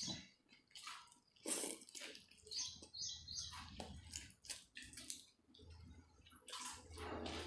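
A person eating tandoori chicken: irregular short chewing and smacking noises.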